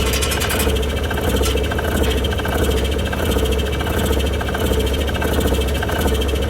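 A machine running steadily, with a strong low hum and a fast, even rattle over it.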